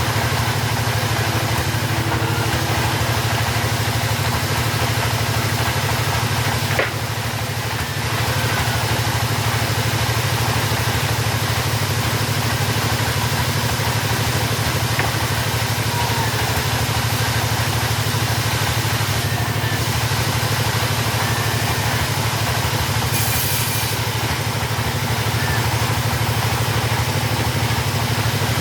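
Wood-cutting saw's engine running steadily at a constant speed, with a brief drop in level about seven seconds in.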